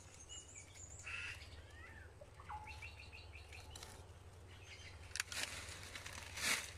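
Wild birds chirping, with a quick run of repeated short chirps about three seconds in. A short, louder noisy sound comes twice near the end.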